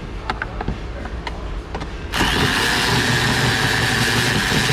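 Ratchet on a long extension clicking against a bolt, then a power ratchet starts suddenly about two seconds in and runs steadily with a loud hiss, spinning out a bolt.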